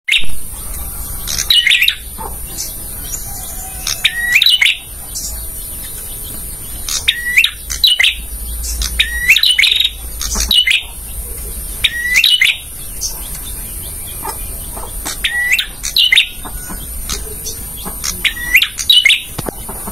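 Male prenjak (a prinia) calling: short, sharp rising notes in quick bunches, repeated every one to three seconds over a steady background hiss.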